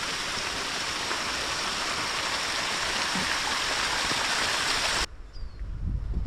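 Steady rush of fast-flowing mountain water. It cuts off abruptly about five seconds in, leaving quieter low thumps and a few faint short chirps.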